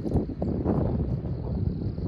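Wind buffeting the microphone outdoors: an uneven, gusting low rumble, with a faint steady high-pitched hiss above it.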